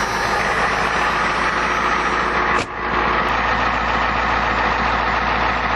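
1991 Ford F350's 7.3L IDI V8 diesel idling steadily shortly after a cold start at −8 °C, with a brief break about two and a half seconds in.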